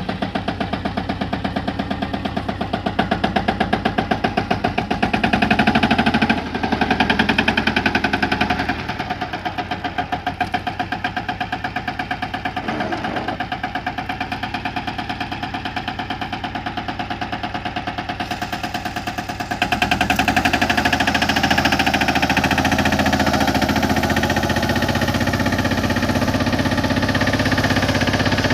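15 HP mini tractor engine running with an even, rapid beat while pulling duck-foot cultivator tines; it gets louder about two-thirds of the way through.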